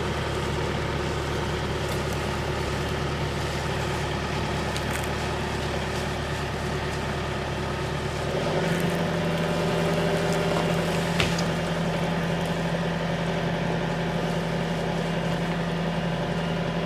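Tractor engine running steadily. About eight seconds in, its note shifts higher and it runs a little louder. A single sharp click is heard a few seconds later.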